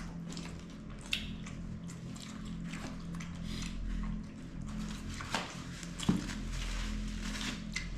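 Eating sounds: chewing, with small clicks and rustles of food and containers being handled, over a steady low hum.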